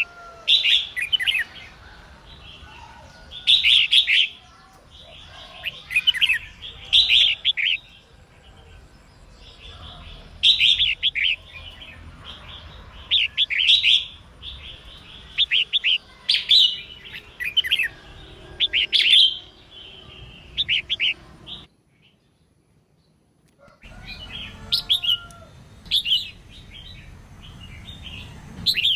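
Female red-whiskered bulbul singing: short, bright phrases of quick warbled notes, repeated every one to three seconds. The song drops out abruptly into near silence for about two seconds, then resumes. It is the kind of female call used to excite males into singing.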